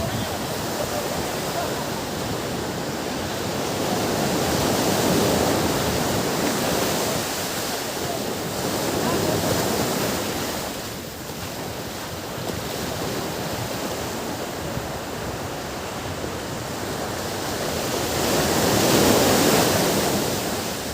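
Ocean waves breaking on a beach, a continuous wash that swells and ebbs, with the loudest surge near the end.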